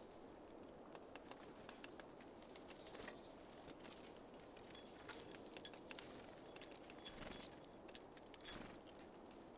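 Faint scattered tapping and clicking of small birds at a seed feeder, with a few brief high chirps in the middle and a couple of soft thuds near the end.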